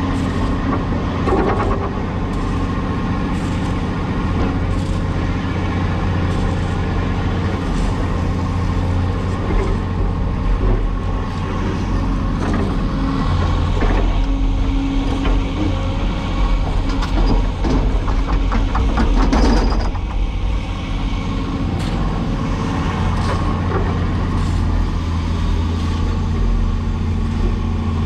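Cat 336E excavator's diesel engine running steadily under work, with scattered knocks and rattles from the machine through the middle stretch.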